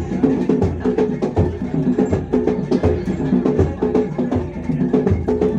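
Bantengan accompaniment music from a Javanese percussion ensemble: a repeating pattern of pitched gong-chime notes over a steady bass drum beat, with sharp drum and wood-block-like strokes.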